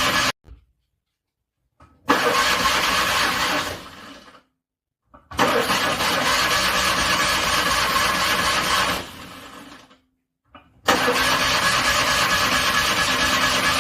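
A car's starter cranking a cold engine in three bursts of about three and a half seconds, each fading away and then stopping dead before the next; the engine struggles and does not run on in the cold.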